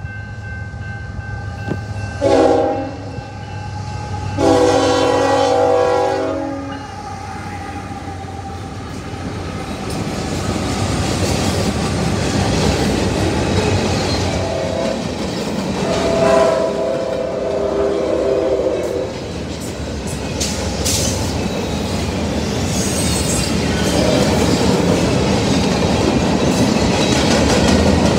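Diesel locomotive horn sounding four blasts, short, long, short and long, then the steady rumble and clickety-clack of freight cars rolling past close by, growing louder toward the end.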